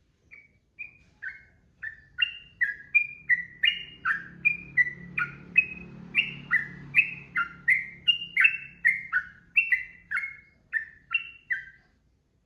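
Yellow-vented bulbul (trucukan) singing a long unbroken run of short, clear chirping notes, about two a second, each note stepping up or down in pitch. The run stops shortly before the end.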